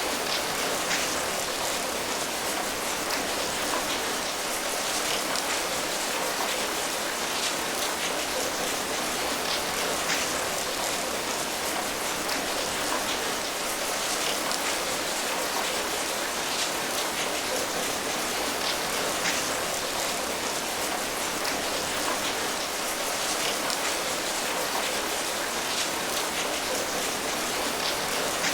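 Steady rainfall: an even hiss of rain with the patter of individual drops hitting a surface, unchanging throughout.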